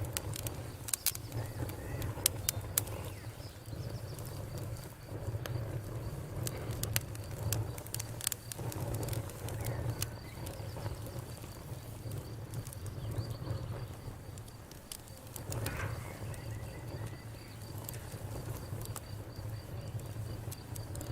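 Wood campfire crackling, with irregular sharp pops scattered throughout, thickest in the first three seconds, over a low steady rumble.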